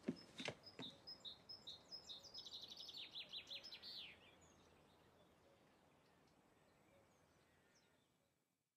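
Faint songbird song: a run of repeated high notes that speeds up into a quick falling trill and ends about four seconds in, with a couple of soft clicks at the very start.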